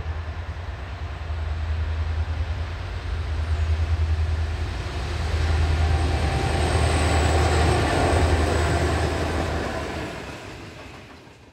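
A pair of EMD G class diesel-electric locomotives drone past at the head of a grain train. The rumble and rattle of the grain hopper wagons rolling by grows louder from about halfway, with a faint high squeal in the middle, and the sound fades out at the end.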